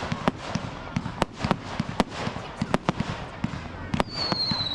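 Display fireworks going off in rapid, irregular bangs and crackles. A high whistle starts about four seconds in and slowly falls in pitch.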